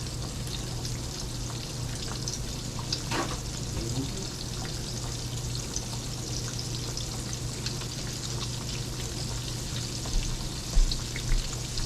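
Breaded chicken fried steak frying in hot grease at about 350°F: a steady sizzle full of fine crackles, over a steady low hum. A couple of louder knocks come near the end.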